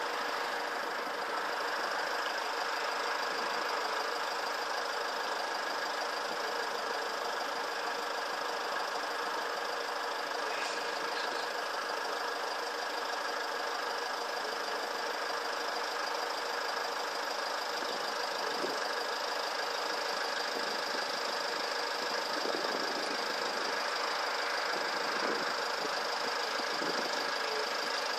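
Steady mechanical drone like an idling engine, holding a few constant tones, with some faint short knocks in the second half.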